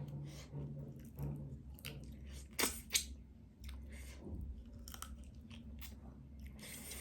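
Close-up mouth sounds of a person eating crab: wet chewing with small clicks and crackles, and two sharp, loud crunching bites about a third of a second apart near the middle.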